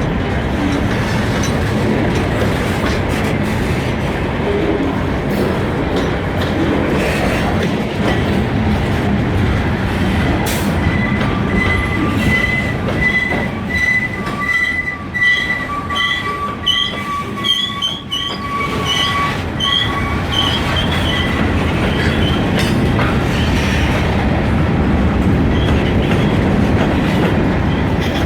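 Freight train rolling past with a steady rumble and clatter of wheels on rail. About twelve seconds in, the wheels start a high, wavering squeal that lasts around ten seconds before it fades.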